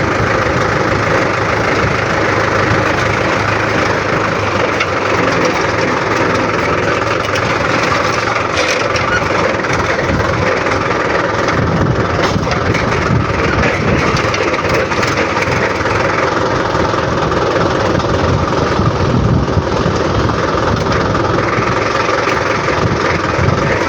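Tractor engine running steadily as the tractor is driven along a farm track.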